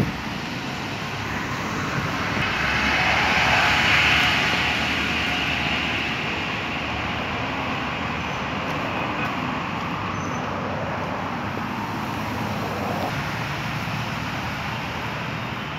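Steady motor-vehicle noise: one engine passes, swelling to its loudest about four seconds in and then fading back into a steady background rumble.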